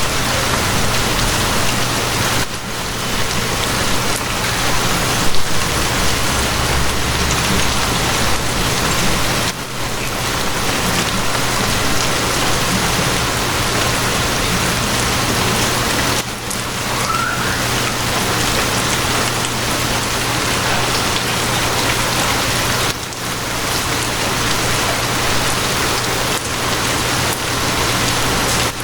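Steady rain falling, an even wash of noise, with a steady low hum beneath it.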